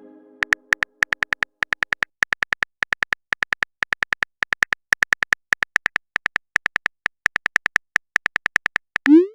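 Phone keyboard typing sound effect: a long run of short, high-pitched clicks, several a second, ending with a short rising pop near the end.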